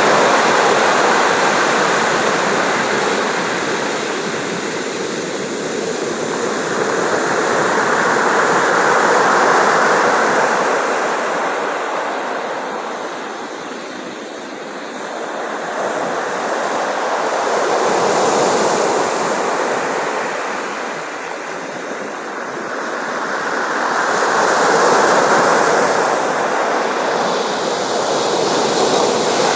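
Sea waves breaking and washing on the shore, a steady rush that swells and ebbs in slow surges about every seven or eight seconds.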